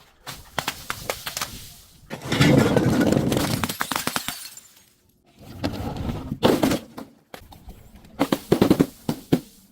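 Objects being crushed and broken, crunching and cracking in four spells of dense snaps, each one to three seconds long, with short pauses between.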